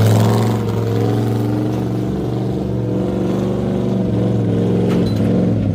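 A pulling truck's engine running loud at high revs, its pitch holding fairly steady with small wavers, as it works under the load of the sled.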